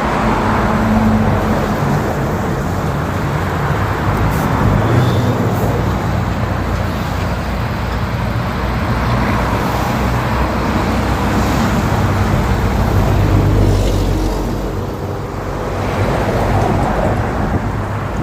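Road traffic running steadily, engines and tyres of vehicles going past close by, the noise swelling several times as individual vehicles pass.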